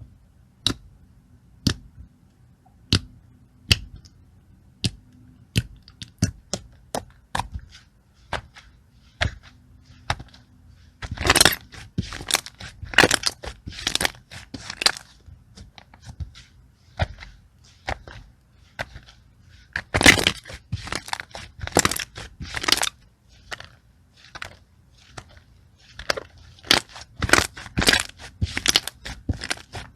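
Slime being poked and squeezed by hand, giving sharp single clicks and pops about once or twice a second at first, then clusters of dense crackling crunches.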